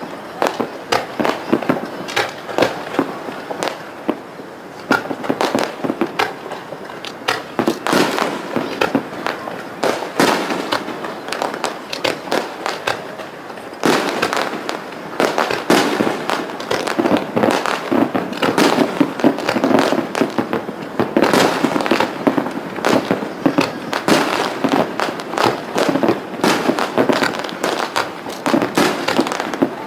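Fireworks display: a steady run of bursts and crackling, growing denser and louder about halfway through.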